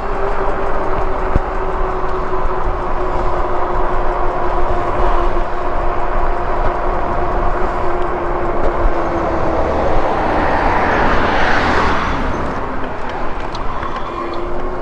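Lectric e-bike riding along a road: wind rushing over the body-mounted microphone, with a steady whine from the hub motor. A louder rush swells and fades about ten to twelve seconds in.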